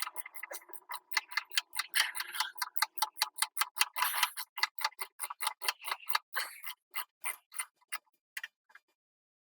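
Ratchet spanner clicking rapidly as a bolt is wound off, about five clicks a second, the clicks spacing out and fading near the end.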